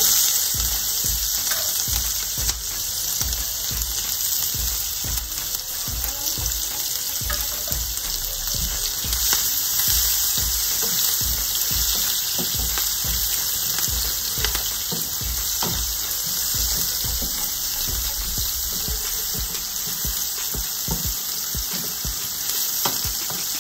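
Crushed garlic and green chillies frying in hot ghee with cumin seeds: a loud, steady sizzle that starts abruptly as they hit the pan, with the low knocks and scrapes of a wooden spatula stirring them.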